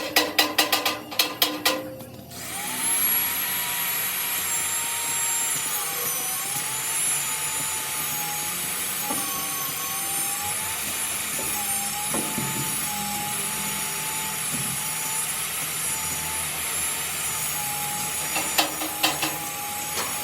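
Rapid hammer blows on metal, about five a second, stopping about two seconds in. A hand-held power tool's motor then runs with a steady whine that wavers in pitch, and the hammering starts again near the end.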